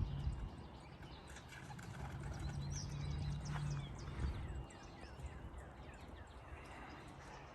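Birds chirping outdoors: many short, quick chirps over scattered light clicks and taps. A low hum swells in the middle and fades a little past halfway.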